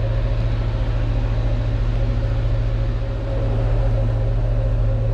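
A sailboat's engine running steadily under way: a constant low hum with a steady higher tone over it.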